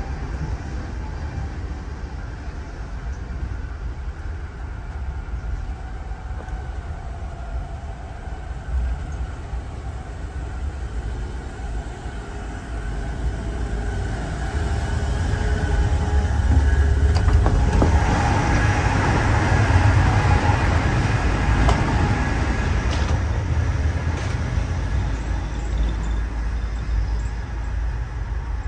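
Interior running noise of an Amtrak Amfleet I passenger car at speed: a steady deep rumble of wheels on rail. It grows louder for several seconds partway through, in the vestibule and gangway between cars, with a few sharp clicks, then eases back inside the next coach.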